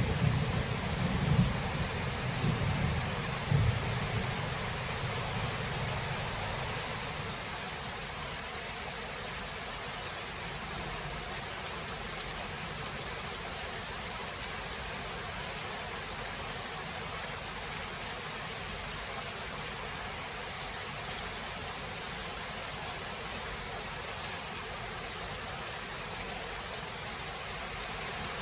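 Steady rain with thunder rumbling over it in the first few seconds, the rumble dying away by about six seconds in and leaving the rain alone.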